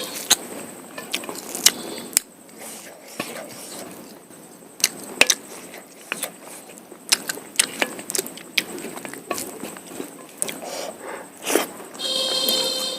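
Close-up eating sounds of mutton curry and polao rice: chewing and mouth smacks with sharp, irregular clicks and crunches, some of them likely the small mutton bones. Near the end a brief pitched tone sounds.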